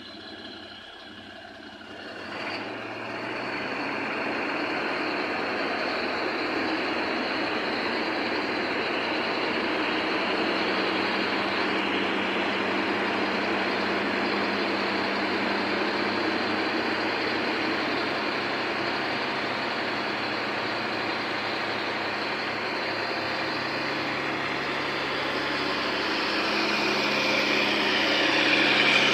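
A truck engine running steadily. It gets louder about two seconds in and builds again near the end.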